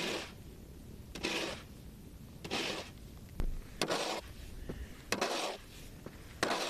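Snow shovel scraping along a driveway: six even strokes about a second and a quarter apart.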